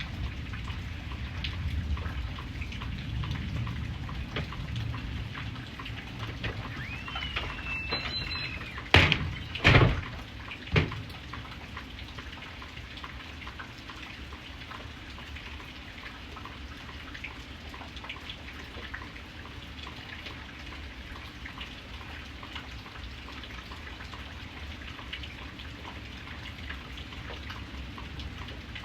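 Steady rain falling, with separate drops hitting a surface. About nine to eleven seconds in come three louder sharp knocks.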